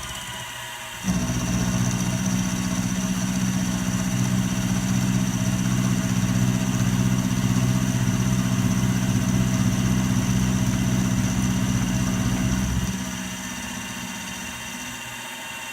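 Milling machine running steadily. About a second in, a louder steady motor hum joins it and runs until about thirteen seconds, then drops away, leaving the machine's quieter hum. This fits the mill's power feed driving the table.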